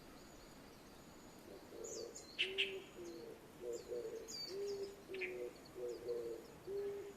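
Morning birdsong: a low call repeated about twice a second starts about two seconds in, over short high chirps and a few sharp calls from other birds.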